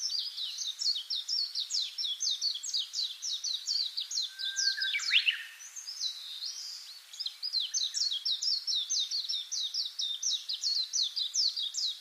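A bird singing a fast run of high, downward-slurred chirps, about five a second. Near the middle the run breaks, a lower sweeping note sounds, and then the run starts again.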